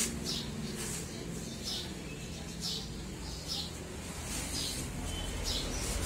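A small bird chirping outside, short high chirps repeating about once a second, over a steady low hum.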